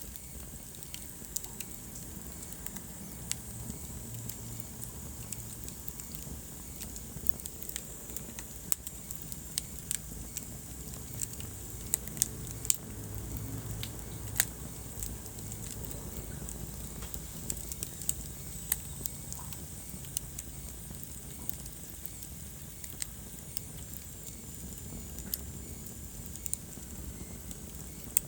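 Wood fire crackling in a fireplace: irregular sharp pops and snaps over the low rush of the flames, a few louder pops around the middle.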